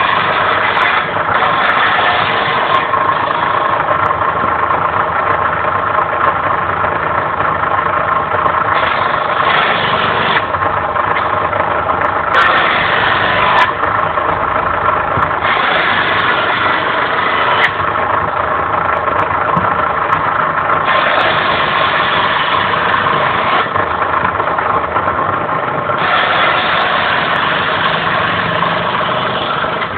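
Homemade belt-driven circular saw powered by the electric motor of an old BCN water pump, running steadily. Several times it turns harsher and brighter for a few seconds, as when the blade is cutting through firewood.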